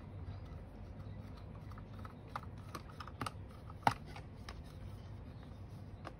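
Faint, irregular small clicks and ticks of a screwdriver backing screws out of a Dyson V8 vacuum's plastic housing, with one sharper click just before four seconds in.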